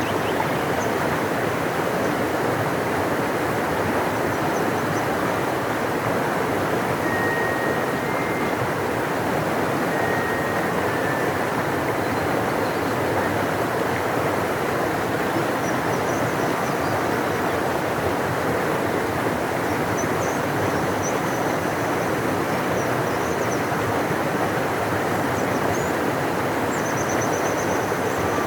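Large river rushing: a steady, even sound of moving water. A few faint high chirps come through over it, mostly in the second half.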